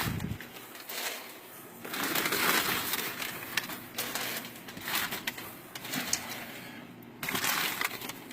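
Packing paper rustling and crumpling as it is pulled out of a cardboard shipping box, in several swells with a few sharp clicks.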